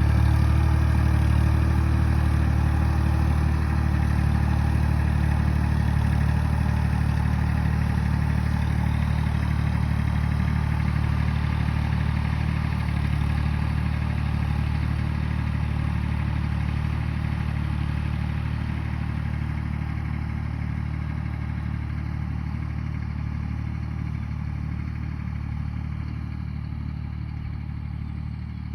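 Farm tractor's diesel engine running steadily under load, a low drone with some clatter that grows gradually quieter.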